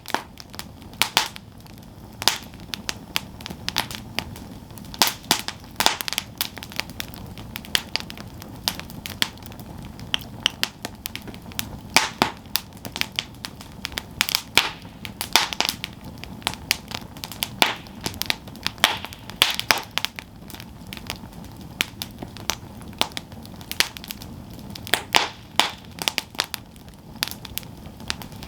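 Campfire burning, the wood crackling with irregular sharp pops and snaps over a low steady hiss.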